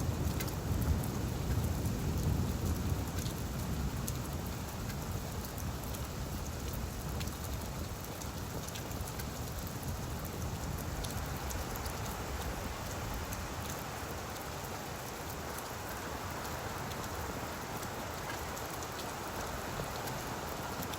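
Steady rain falling on leaves, with fine drop ticks scattered through an even hiss. A low rumble under the rain in the first few seconds fades away.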